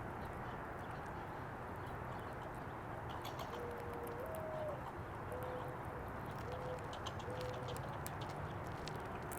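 Mourning dove cooing its song: a long low coo that steps up to a higher note, then three shorter coos at the lower pitch, from about a third of the way in. A steady outdoor hiss and faint ticking run underneath.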